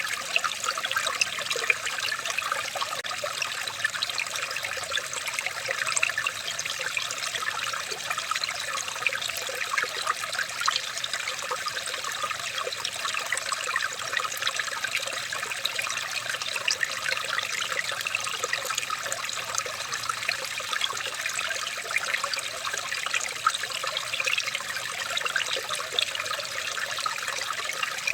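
Running water trickling steadily, with a dense, unbroken patter of small splashes.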